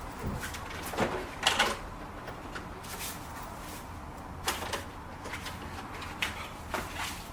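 Scattered clicks and knocks, about half a dozen, of parts and tools being handled while working on the car's front end, over a faint steady low hum.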